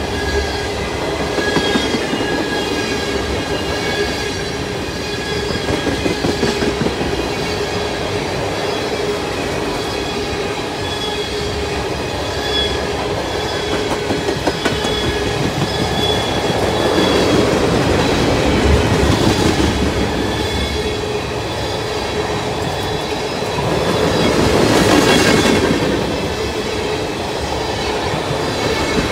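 Freight train of tank cars rolling past close by: a steady rumble of wheels on rail with clickety-clack over the joints and a thin, steady wheel squeal, swelling louder twice in the second half.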